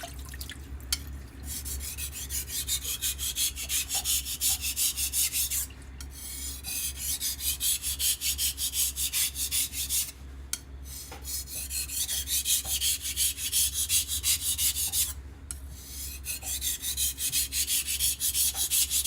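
Knife blade scraped back and forth on a Naniwa Chosera whetstone in quick, even strokes. The strokes come in four runs separated by short pauses. A steady low hum sits underneath.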